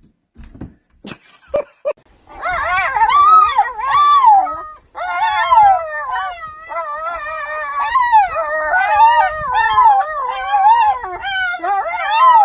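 A dog howling, its pitch wavering up and down in one long, nearly unbroken run from about two seconds in, after a few short clicks.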